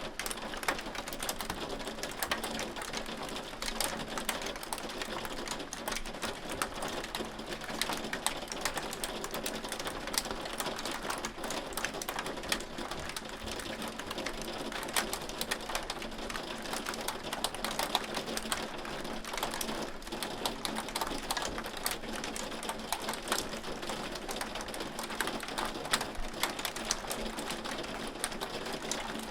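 Hailstones falling steadily, a dense, even clatter of countless small hard impacts.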